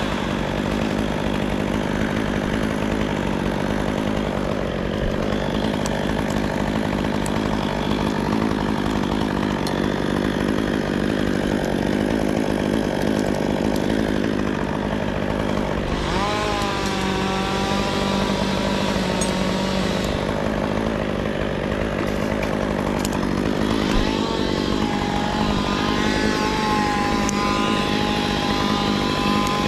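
Chainsaw running hard, cutting wood; its engine pitch sags and climbs again about halfway through and near the end.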